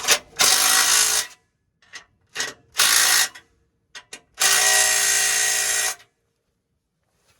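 Cordless impact gun run in short bursts on an exhaust fastener: three main runs with a few brief blips between, the longest about a second and a half near the end.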